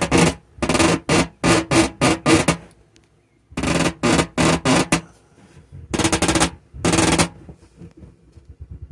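Rapid runs of knocking on a wooden subwoofer enclosure, coming in several bursts of about four or five blows a second with short pauses between, a quiet gap about three seconds in.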